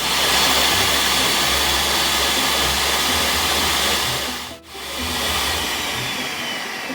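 Countertop blender running at high speed, blending almond butter and water into almond milk. It cuts out for a moment about four and a half seconds in, then runs again and gradually gets quieter near the end.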